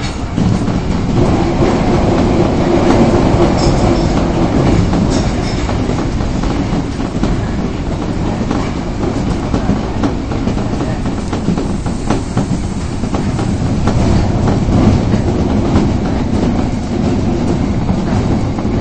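Osaka Metro Tanimachi Line subway train running between stations, heard from inside the car: a steady rumble of wheels on rail with clickety-clack over the rail joints.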